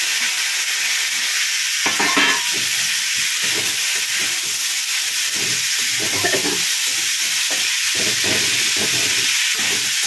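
Chopped tomato and apple sizzling in hot oil in a kadhai, stirred with a flat metal spatula that scrapes against the pan in irregular strokes. The sizzle is steady and loud, with a louder burst about two seconds in.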